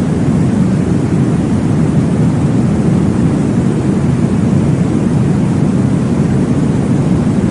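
Steady, deep whooshing noise of a baby sleep track, meant to imitate the whoosh of blood flow heard in the womb. It runs evenly with no pauses and no distinct beats.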